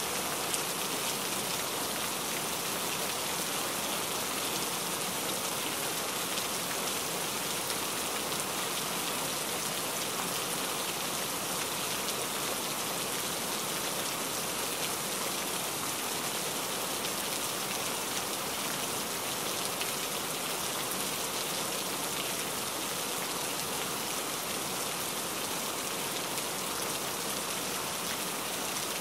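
Steady rain: a dense, even hiss of many raindrops falling, with no let-up and no change in strength.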